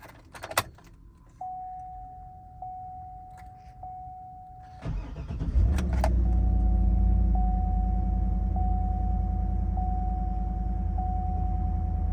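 Cold start of a 2011 Cadillac Escalade's V8: a few clicks and a warning chime repeating about once a second, then the starter cranks about five seconds in and the engine catches and settles into a steady idle, the chime still sounding.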